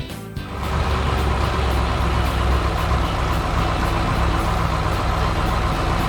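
A heavy engine running steadily with a deep rumble, as a cartoon vehicle sound effect. It comes in about half a second in.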